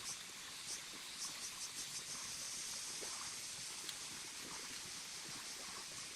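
Steady high-pitched insect chirring, with a quick run of high ticks in the first couple of seconds and faint scattered rustles and crackles underneath.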